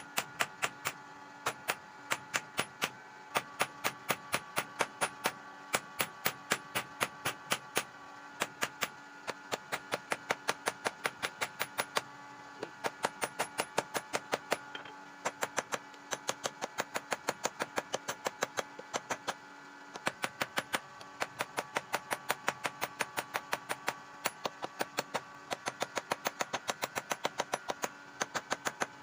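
Rapid, evenly paced hammer blows on metal, about three to five a second, in runs broken by short pauses, over a steady hum.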